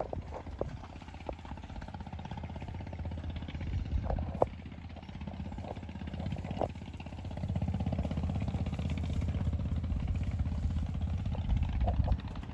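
An engine running steadily with a low rumble that grows louder about halfway through, with a few sharp clicks on top.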